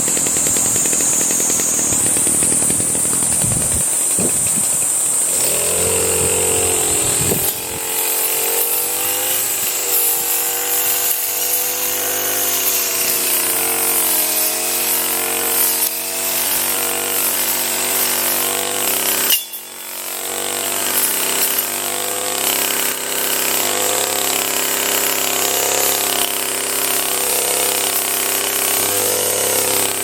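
Small two-stroke engine of a handheld power tool running, starting about five seconds in, its pitch rising and falling as it is worked, with a brief drop about two-thirds of the way through.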